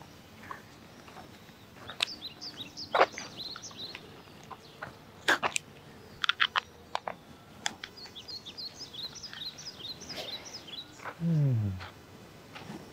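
Small birds chirping in short high calls, in two spells, over outdoor ambience, with scattered sharp clicks. Near the end a short low tone slides down in pitch.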